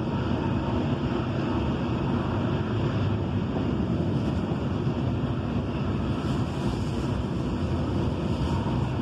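Norfolk Southern freight cars rolling past close below, a steady rumble and rush of steel wheels on rail.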